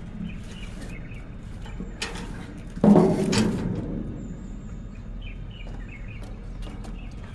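A single loud knock about three seconds in that rings out briefly, over a low steady hum, with faint bird chirps.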